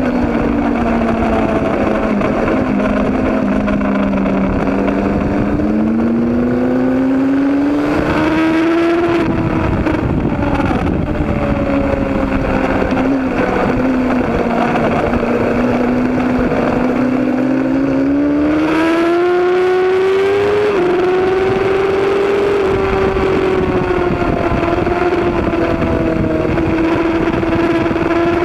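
Racing motorcycle engine running hard at high revs, its pitch climbing as it accelerates, falling back about nine seconds in, then climbing again around eighteen to twenty seconds in, with wind noise underneath.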